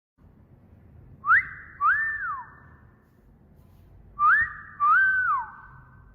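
A wolf whistle played twice, about three seconds apart. Each is a quick rising note followed by a note that rises, holds and drops away, with a short echo trailing after it.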